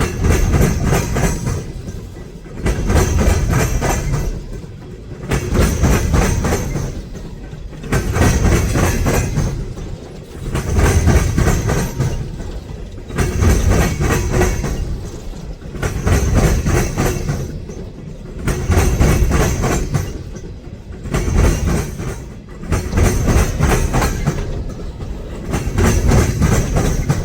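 Freight train cars rolling past close by, their wheels clattering over the rails in a steady rhythm that swells and dips about every two seconds as each car goes by.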